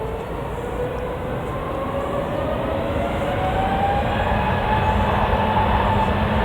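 Jet airliner engines spooling up, a whine rising steadily in pitch over a loud rumble that builds.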